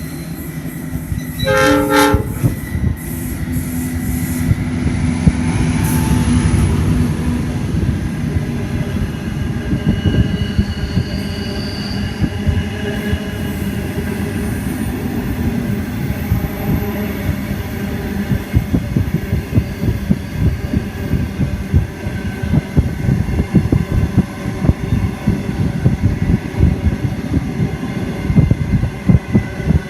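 Train led by 82 class diesel locomotives passing close by: a short horn blast about two seconds in, then the locomotives' engines running past, then the wagons' wheels clattering steadily over the rails.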